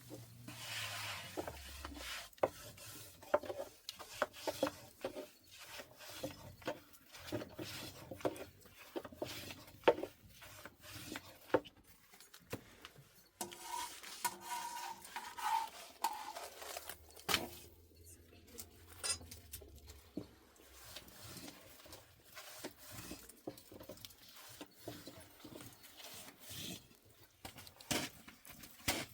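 Irregular knocks, scrapes and rubbing of kitchenware being handled, like pots, dishes and utensils being moved and stirred.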